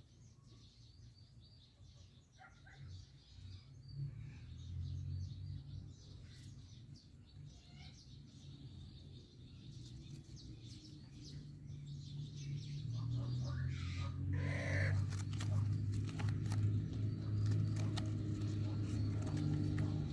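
Ringneck parrot giving scattered short chirps and clicks, with one longer call about two-thirds of the way through. Under the calls runs a low rumble that grows louder in the second half and is the loudest sound.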